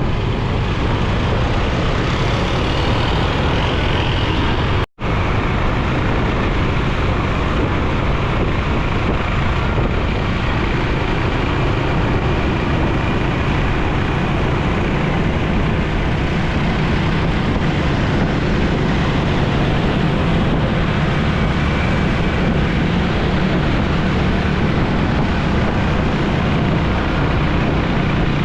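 Motorcycle engine, wind and road noise heard from the moving bike, with the surrounding city traffic mixed in, steady throughout. The sound cuts out for a split second about five seconds in.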